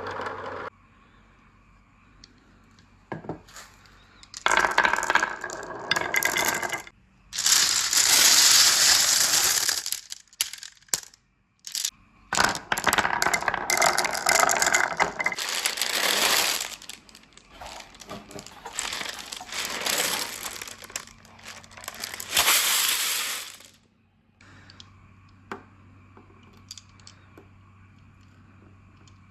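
Many marbles rolling and clattering down PVC pipes and rain gutters, in several loud rushing runs full of clicks and rattles, dying away near the end.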